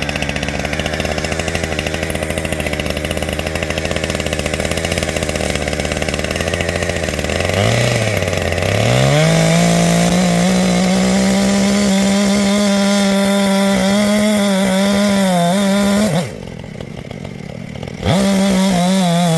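Two-stroke chainsaw just started on the choke, idling steadily at first, then blipped and revved up to a high, steady full-throttle whine from about halfway in. Near the end the high revs drop away for a couple of seconds and then come back.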